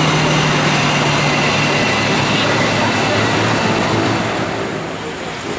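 Argo Cirebon passenger train passing close by, its wheels and cars making a steady rolling noise that eases off near the end.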